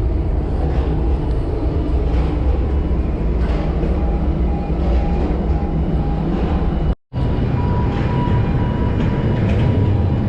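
Log truck's diesel engine running with a steady low rumble; the sound cuts out for an instant about seven seconds in, then carries on the same.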